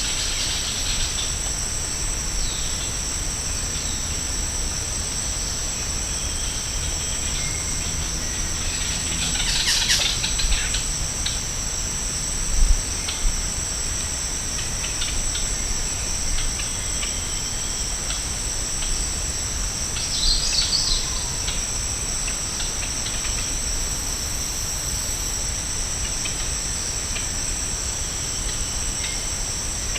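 Rainforest insects droning without a break in two steady high tones. A few short bird calls come about ten seconds in and again about twenty seconds in, and a brief low thump sounds near the middle.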